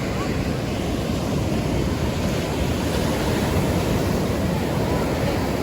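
Ocean surf washing onto a sandy beach, a steady roar, with wind buffeting the microphone.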